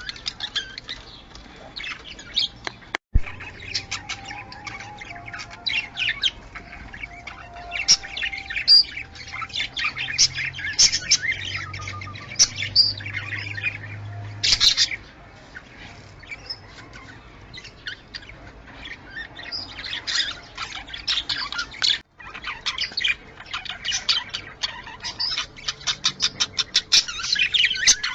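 Budgerigars chattering: a dense run of rapid chirps, warbles and squawks, dropping out for an instant twice.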